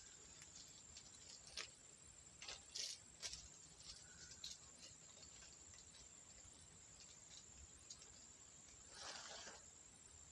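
Near silence with a few faint clicks and taps of small plastic build pieces being handled, clustered in the first few seconds, then a brief soft rustle near the end.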